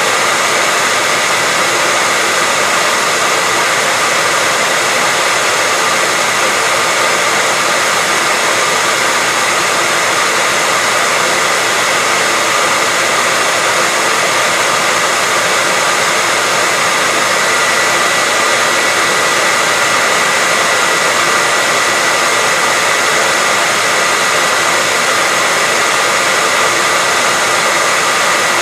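Hair dryer running steadily at one setting: an even rush of air with a thin, constant whine on top.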